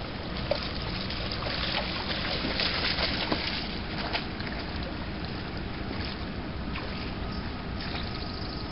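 Steady rushing outdoor ambience at a lakeshore, water and wind, swelling a little about two to three seconds in, with scattered small clicks and rustles.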